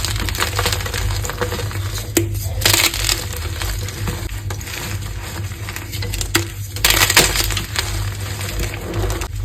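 Gym chalk being crushed by hand, a dense crackling crunch with two louder crunches about three and seven seconds in.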